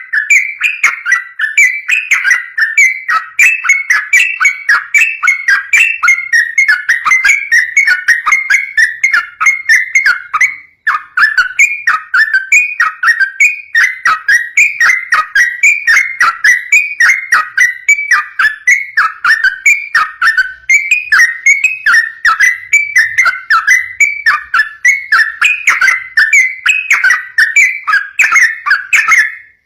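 Yellow-vented bulbul singing a long, nonstop run of rapid, short whistled notes, the fast 'ropel' style of song, with a brief break about eleven seconds in.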